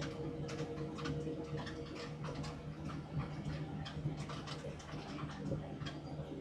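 CAT D6R dozer's C9 diesel engine running at a steady pitch under load while pushing a whole pine tree with its root rake, with irregular clicks and rattles over it.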